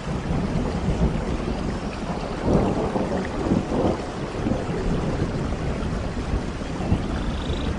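Rain falling steadily under a long, rolling rumble of thunder that swells a few seconds in.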